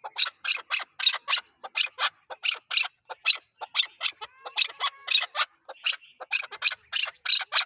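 Chukar partridge giving a rapid run of clucking call notes, about four a second.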